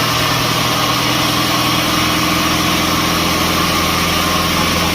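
Sawmill machinery running steadily without cutting: an engine hum with a steady high whine over it.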